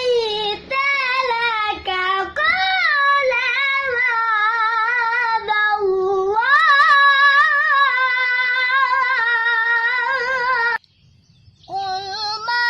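A boy's voice chanting Qur'anic recitation in the melodic tilawah style, drawing out long ornamented notes with wavering melismas and climbing to a higher pitch about halfway. It breaks off briefly near the end for a breath, then comes back in.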